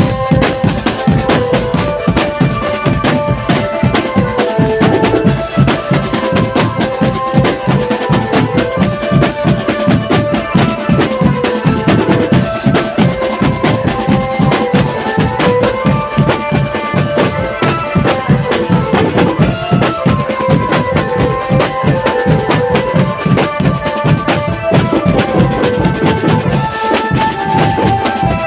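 Marching drum band playing: fast, dense drumming with a stepping melody played on top.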